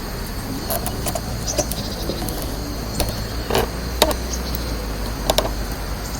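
Twigs and pine cones burning in a small round wood stove, with scattered sharp crackles and pops, the loudest about three, four and five seconds in, over a steady low background rumble.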